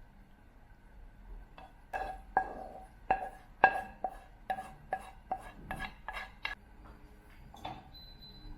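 A metal utensil clinking against cookware about a dozen times, roughly two strikes a second, each strike ringing at the same pitch, while food is handled in the kitchen.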